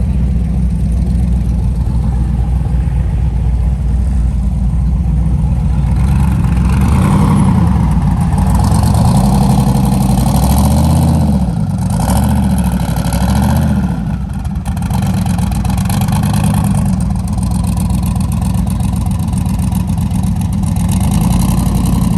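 Car engines running as cars drive slowly past, a loud, deep exhaust rumble throughout. The engine pitch rises and falls several times between about ten and fourteen seconds in.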